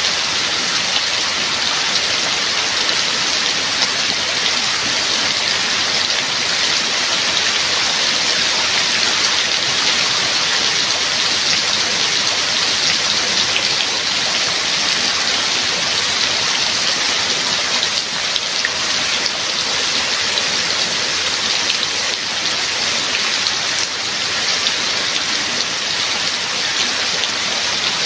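Steady heavy rain falling, an even hiss of drops hitting a surface with fine individual drop ticks.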